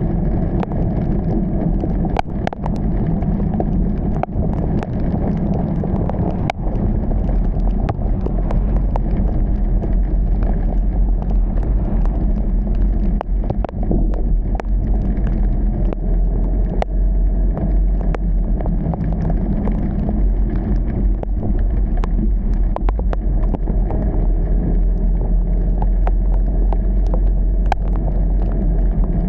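Steady low rumble of a car driving on wet roads in heavy rain, with scattered sharp ticks throughout.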